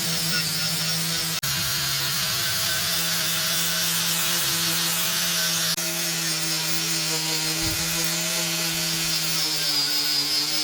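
Small electric power tool running steadily at a constant pitch with an abrasive rubbing hiss, as when sanding or brushing metal parts. It breaks off for an instant twice.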